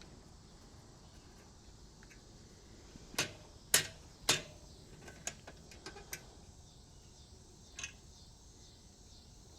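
Three sharp metallic-sounding clicks about half a second apart, then a few lighter clicks and a last one near the end, from hand work on an e-bike's fender mounting hardware while the fender is adjusted.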